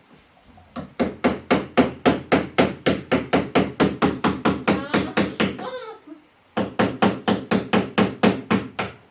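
A tool striking a hard surface with rapid, rhythmic blows, about five a second. A long run of about five seconds, a brief pause, then a second run of about two and a half seconds.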